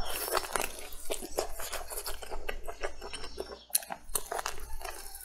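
Biting into and chewing a braised chicken drumstick: a quick, irregular run of mouth clicks and crunches.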